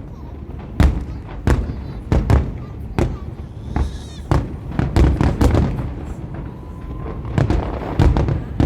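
Aerial fireworks shells bursting in a rapid, irregular string of deep booms and sharper cracks, several a second.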